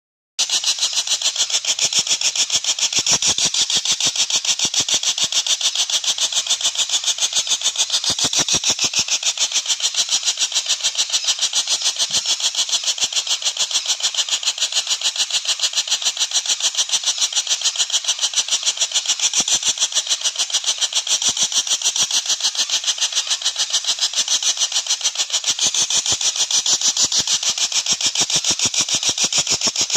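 Common flameback woodpecker (pelatuk bawang) calling in a fast, even, unbroken rattle of high notes that sounds like a small engine chugging.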